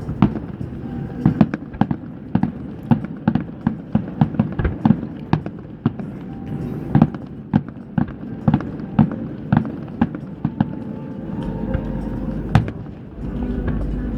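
Fireworks bursting overhead: a rapid, irregular series of sharp bangs, often several a second. A low steady rumble comes in near the end.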